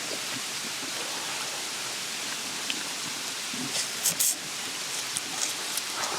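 Steady rushing of flowing stream water, with a few short sharp clicks about four seconds in.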